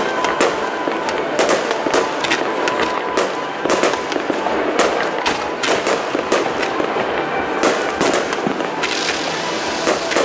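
Fireworks display with comet shots fired in quick succession: a dense, irregular string of sharp pops and cracks over a continuous crackling hiss.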